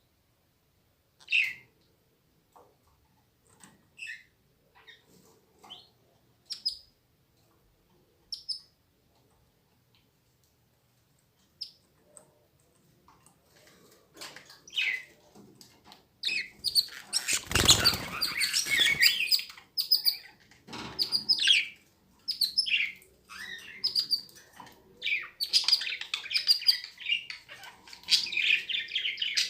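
Canaries chirping in their cage: single short chirps now and then at first, then from a little past halfway many birds chirping together almost without pause. A brief loud noise cuts across the chirping just after the chirping picks up.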